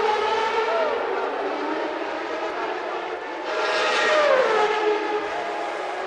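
Several 1991 Formula One cars' high-revving, naturally aspirated 3.5-litre engines running at racing speed together. It gets louder about three and a half seconds in, and one engine's pitch then falls over about a second as that car passes or lifts off.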